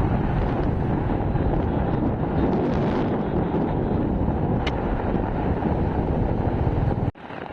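Wind buffeting the microphone on a moving motorcycle, with engine and road noise underneath: a loud, steady rumble. It cuts off abruptly near the end to a much quieter sound.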